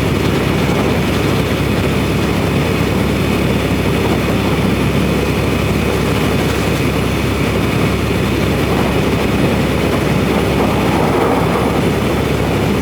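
Semi truck's engine and road noise heard inside the cab: a steady, unbroken drone.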